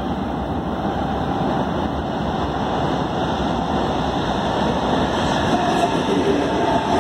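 Hamburg S-Bahn electric train approaching over a steel railway bridge and passing close by: a rumble of wheels on rails that grows steadily louder, with a faint whine entering near the end.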